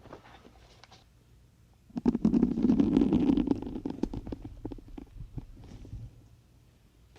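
Syringes being pulled out of a soft sponge right at the microphone: a squelching, crackling rub of needle and barrel against foam starts about two seconds in and fades out over the next few seconds.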